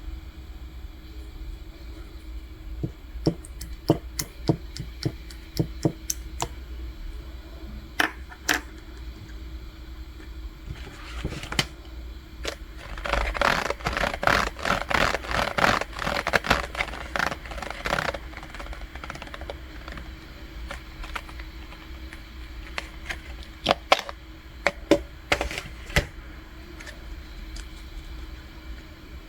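Elmer's glue slime being handled, giving irregular sharp clicks and pops, with a dense crackling run of clicks for several seconds in the middle.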